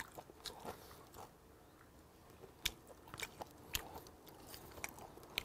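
Faint close-miked chewing of grilled hagfish, with scattered soft, sharp mouth clicks.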